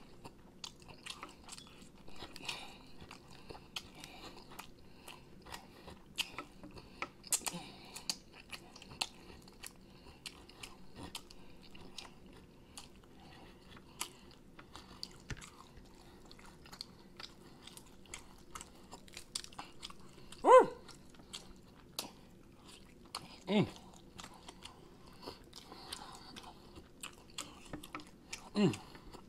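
Close-miked eating of sauced chicken wings: steady wet chewing, lip-smacking and sucking meat off the bones, in many small clicks. Three short, louder hums break in over the last third.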